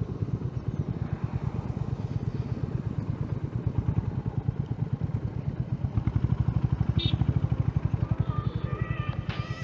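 Honda H'ness CB350's single-cylinder engine running as the motorcycle is ridden, its exhaust pulses evenly spaced and getting louder about six seconds in. Background music fades in near the end.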